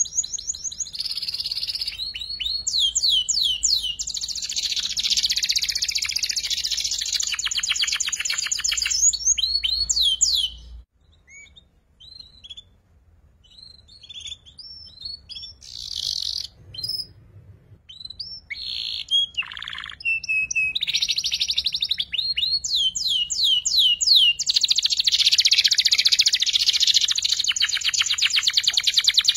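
Young domestic canary singing: long phrases of rapid rolling trills mixed with quick rising whistled notes. The phrases break off about ten seconds in for a stretch of scattered short chirps, then resume in a second long trill. This is a young bird still learning the rolling 'ngeriwik' trill.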